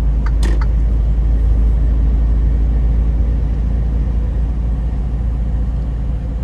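Semi-truck engine and road noise heard inside the cab while driving, a steady low drone, with one sharp click about half a second in.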